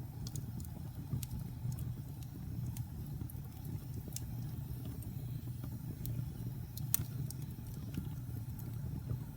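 Wood fire burning in a fireplace: a steady low rumble of the flames with scattered sharp crackles and pops, the loudest about seven seconds in.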